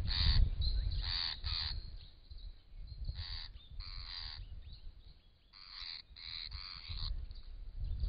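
A bird gives a series of short, harsh, crow-like calls, about nine in all, in clusters of one to four, with a pause around the middle. A low rumble sits underneath.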